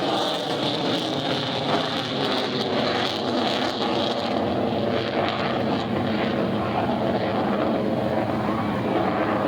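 Jet noise from an F-22 Raptor's twin turbofan engines during its display, a loud, steady noise that loses some of its hiss about four and a half seconds in.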